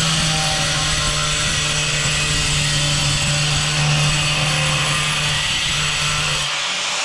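Angle grinder running steadily and cutting into a hard tile, a steady motor hum under a loud grinding hiss. The low hum drops out briefly near the end.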